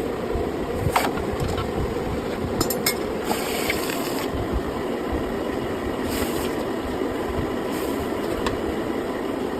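Steel-cored axe head being quenched: several short hissing bursts, about a second long or less, over a steady workshop drone, with a few sharp metallic clicks in the first three seconds.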